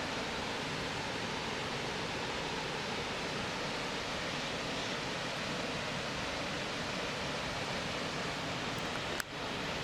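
Steady rushing of running water, even and unbroken, with a single sharp click near the end.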